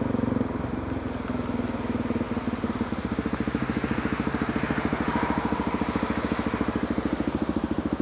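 Motorcycle engine running steadily, then settling about three seconds in into an idle with a fast, even pulsing beat.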